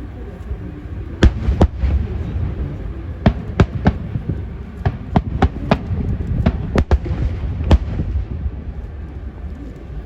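Fireworks going off: a string of sharp bangs at irregular intervals, about fifteen in all and clustered between about three and eight seconds in, over a steady low rumble.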